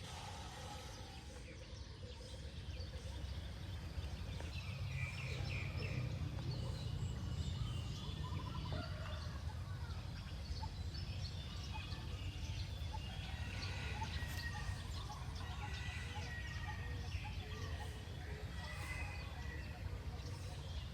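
Many birds calling and chirping, short chirps and brief whistled notes, over a steady low rumble.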